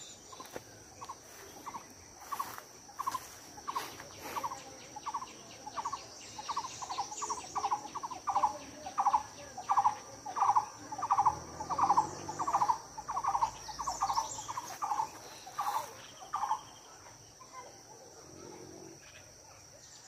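A bird calling a long series of short, low, repeated notes, about two a second, growing louder toward the middle and stopping a few seconds before the end. A steady high-pitched insect drone runs underneath.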